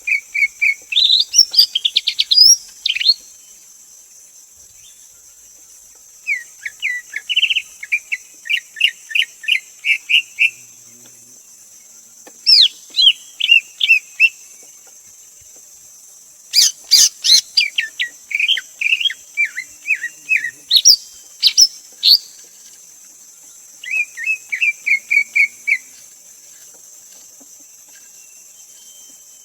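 Greater green leafbird singing: five phrases of rapid, varied whistled notes, each lasting two to five seconds with short pauses between, the longest and loudest phrase about two-thirds of the way in. A steady high hiss runs underneath.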